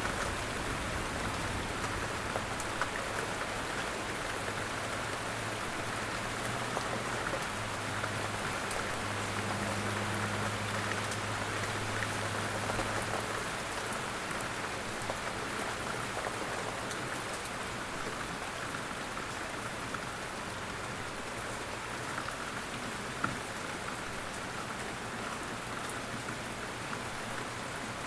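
Steady rain falling on a surface, an even hiss with scattered individual drops ticking. A low steady rumble sits underneath for the first half and fades out about halfway through.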